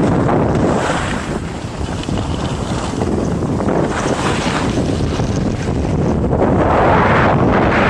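Wind rushing over the microphone during a downhill ski run: a loud, even roar that swells and eases every few seconds, strongest near the end.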